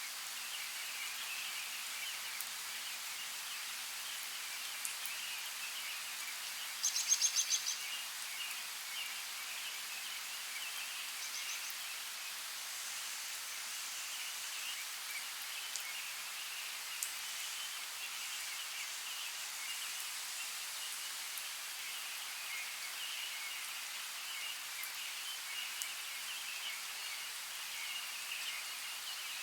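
Steady rain ambience, an even hiss, with a short rapid bird trill about seven seconds in and a fainter one a few seconds later.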